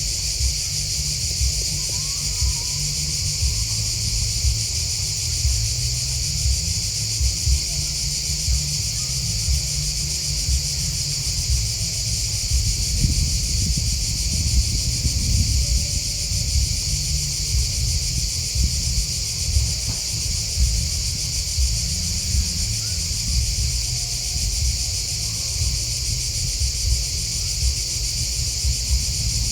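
Steady, high-pitched chirping chorus of grasshoppers and crickets, with a low rumble underneath.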